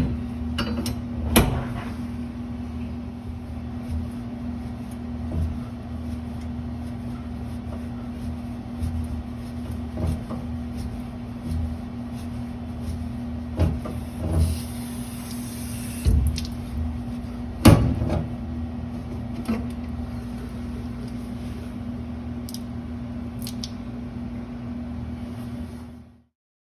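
A steady machine hum with scattered knocks and clicks of tools and copper pipe being handled under a sink. The sound cuts off suddenly near the end.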